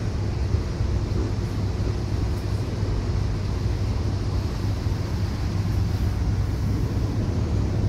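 Steady low rumble of a suburban train, heard from on board.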